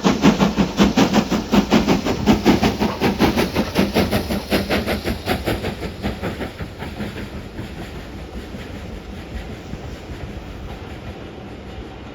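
Steam locomotive working up a gradient, its exhaust chuffing in rapid, regular beats. The chuffs fade away over the second half, leaving a low rumble of the train.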